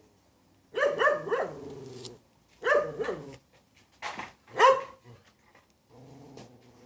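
A dog barking: several sharp barks in quick runs, in three groups, the loudest bark about two-thirds of the way through.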